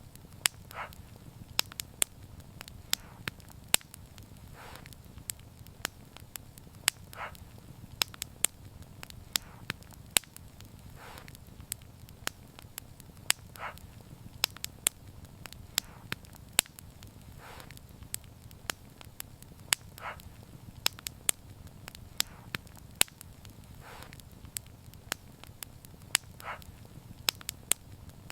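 Wood fire crackling, with frequent sharp pops over a low, steady rumble of flame and soft hisses about every two seconds.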